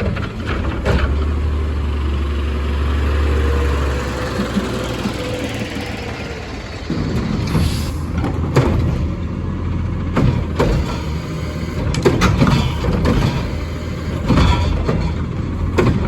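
Peterbilt 520 garbage truck at work: its diesel engine drones loudly for the first few seconds, then a string of sharp knocks and bangs follows over the running engine as the Curotto-Can collection gear handles the trash carts.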